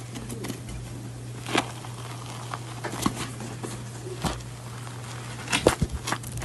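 A few light taps and clicks, scattered irregularly, with a small cluster near the end, over a steady low electrical hum in a small room.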